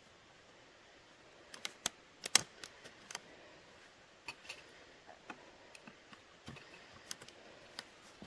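Scattered light clicks and taps at irregular intervals over a quiet background, the loudest about two and a half seconds in.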